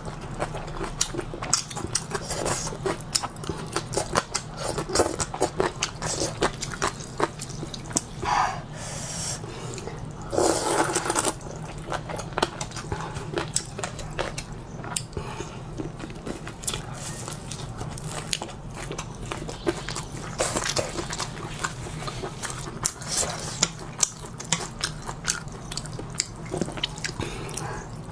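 A person eating noodles close to the microphone: chewing and biting with many small wet clicks, broken a few times by longer noisy bursts.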